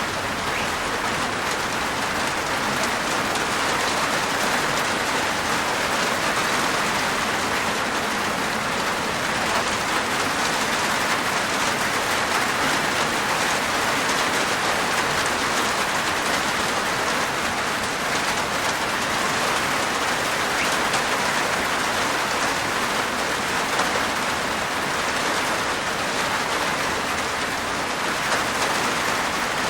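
Steady rain falling on a rooftop, an even patter of raindrops that neither builds nor fades.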